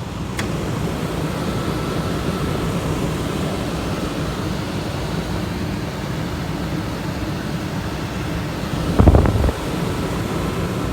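RV air conditioner running on high cool, a steady rush of fan and compressor noise, not exactly whisper quiet. A brief low thump about nine seconds in.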